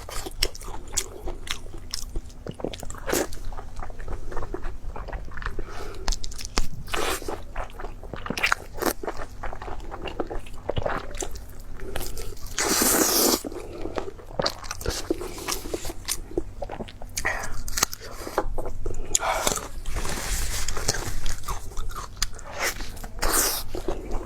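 A person biting and chewing food, with many short mouth clicks and smacks, and a louder burst of noise lasting about a second around the middle.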